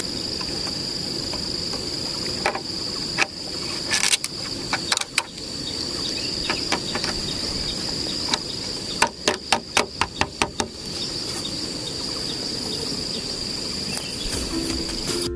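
Insects calling in a steady high drone, with a scattering of sharp knocks and a quick run of them about nine to ten seconds in.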